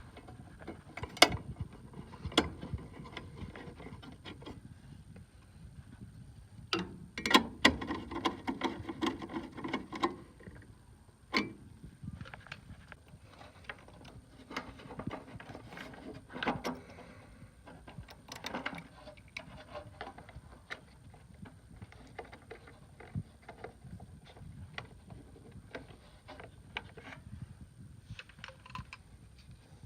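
Scattered clicks, taps and knocks of tools and metal furnace parts being handled during work on an inducer motor assembly, with a brief pitched whirring for about three seconds a quarter of the way in.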